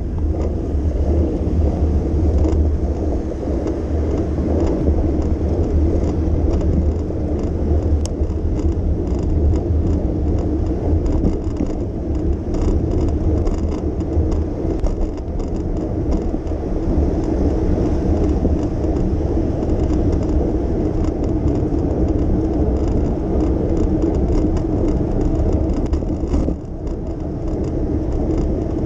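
Steady low rumble of city street traffic and road noise heard from a moving bicycle, with faint ticks over it and a brief dip near the end.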